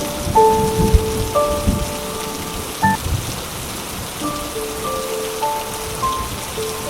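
Steady rain falling, with soft music of slow, held single notes over it and a few low rumbles in the first three seconds.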